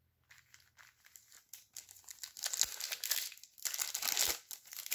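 Foil trading-card pack wrappers crinkling as they are handled and torn open. It starts as faint scattered crackles and turns into louder, denser crinkling about two and a half seconds in.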